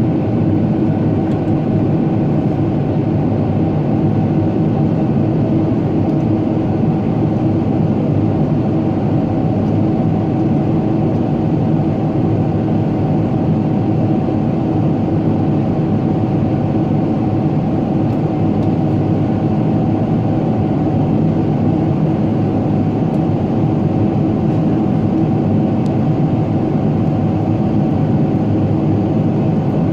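Steady cabin drone of a Boeing 777-300ER airliner: a constant rush of jet engine and airflow noise with a few unchanging hum tones.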